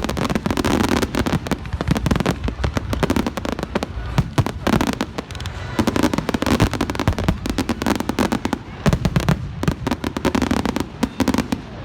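Fireworks display going off: dense, overlapping bangs and crackles, many a second, with short lulls between volleys.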